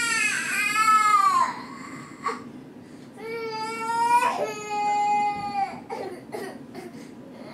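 A young child crying in two long wails: the first falls in pitch and breaks off about a second and a half in, and the second runs from about three to six seconds in.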